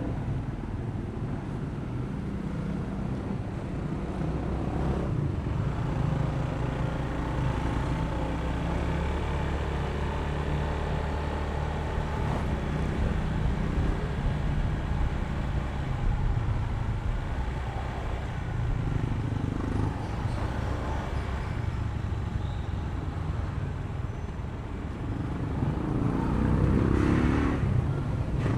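Honda ADV160 scooter's single-cylinder engine running, with road and traffic noise around it. The sound grows louder near the end.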